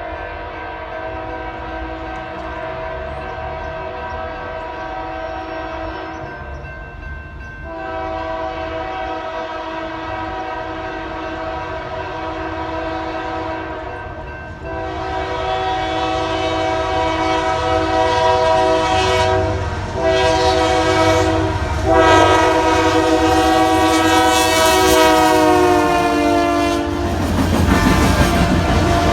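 Union Pacific diesel locomotive's multi-chime air horn blowing in long blasts with a short one near the end, the grade-crossing pattern, getting louder as the train approaches. The horn's pitch drops as the locomotive passes, then the horn stops and the rumble of the passing train takes over.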